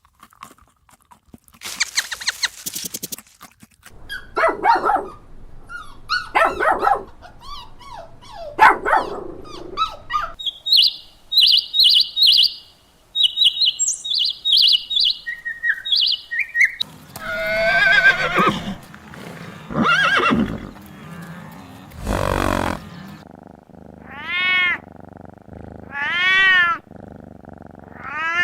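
Several different animal calls one after another, with a run of high, quick chirps in the middle and three arching calls near the end.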